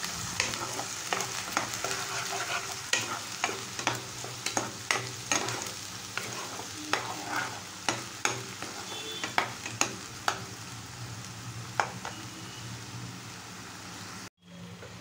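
Onion, ginger and garlic paste sizzling as it fries in oil in a non-stick kadai, while a metal spoon stirs and scrapes the pan with irregular clicks about once or twice a second. The sound drops out briefly near the end.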